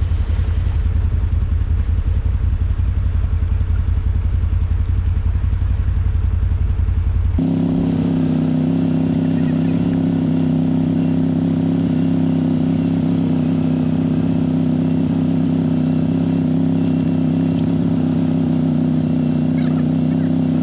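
ATV engine running: a low, pulsing engine note for about seven seconds, then an abrupt change to a steadier, higher-pitched engine hum.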